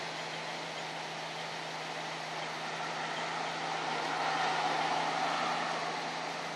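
Nissan SR20DET turbocharged four-cylinder engine idling steadily. It grows a little louder for a moment about four to five seconds in.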